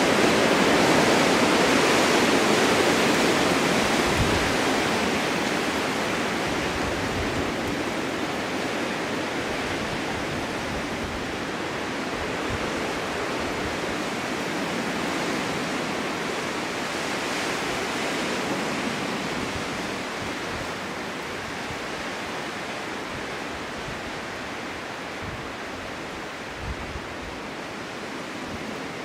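Strong winter wind blowing in a snowstorm, a steady rushing noise that swells in a gust at the start and slowly eases off.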